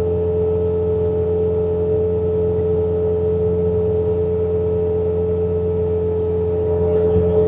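Bobcat T66 compact track loader running steadily while driving its snowblower attachment: a constant engine hum under a strong, steady whine.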